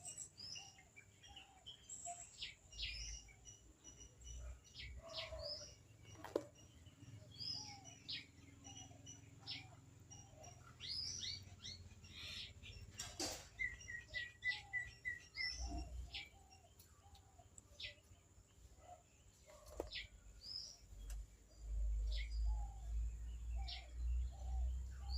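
Several birds calling and chirping, with short scattered calls throughout and a quick run of even, repeated notes about halfway through. A low rumble comes in near the end.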